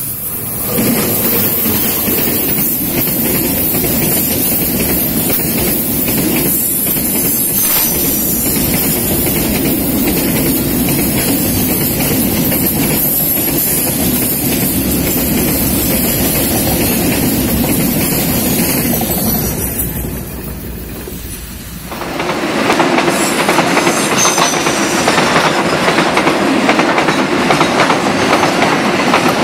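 Cement freight train headed by two GE diesel-electric locomotives (CC206 and CC203) passing close at speed, followed by a long string of covered freight wagons rolling by with steady wheel clatter over the rail joints. About 22 seconds in the sound changes abruptly to a louder rolling of wagons with more hiss.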